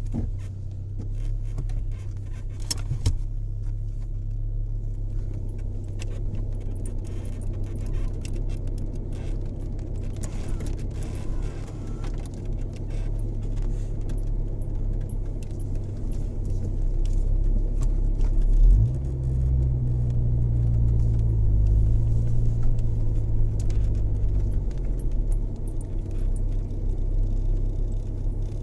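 Rain falling: many scattered drop clicks over a steady low hum, which grows louder and stronger for about six seconds starting a little after two-thirds of the way in.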